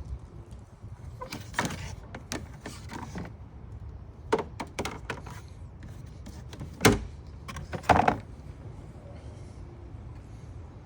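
Scattered clicks and knocks from parts and tools being handled during reassembly under the hood, with the two loudest knocks about seven and eight seconds in.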